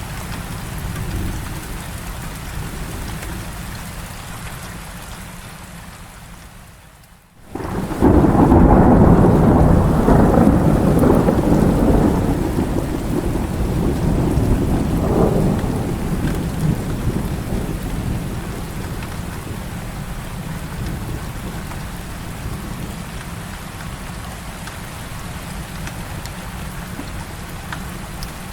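Heavy rain falling steadily. About a third of the way in, the sound briefly dips to almost nothing, then a loud clap of thunder breaks in and rolls on for several seconds. A second swell follows a few seconds later before the thunder fades back under the rain.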